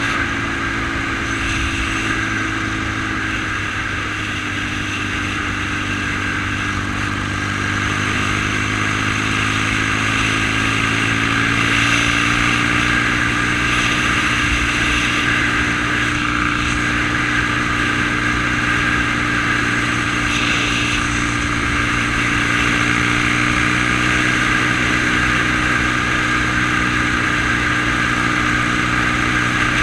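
1971 BSA Lightning's 650 cc parallel-twin engine running steadily, its pitch dipping a little a few seconds in and climbing back by about ten seconds in, then holding level.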